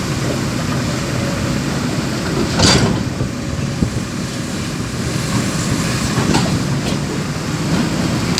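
Truck engine running steadily, with a loud rattling clatter about two and a half seconds in and a few sharper knocks later on.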